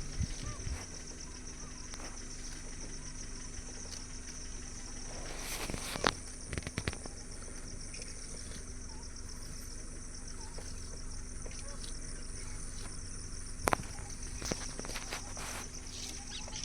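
Steady, high-pitched insect chorus of crickets or cicadas chirring, with two sharp knocks, one about six seconds in and one about fourteen seconds in.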